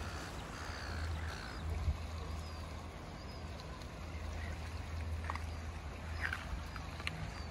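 Birds on the shore chirping repeatedly in short, high calls over a steady low rumble, with a few sharper calls in the second half.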